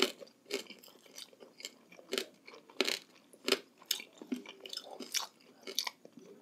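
Close-up chewing of crunchy food: irregular crisp crunches, about two or three a second, from mouths working food held close to the microphone.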